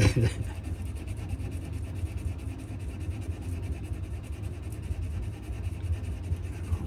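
Hand sanding of a wooden knife handle: sandpaper on a sanding stick rubbing steadily on the wood, with a steady low hum underneath.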